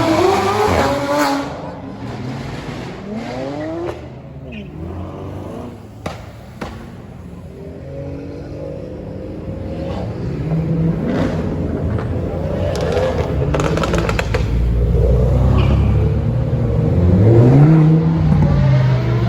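Performance car engines revving, their pitch rising and falling several times, with a quick run of sharp exhaust pops about two thirds of the way through.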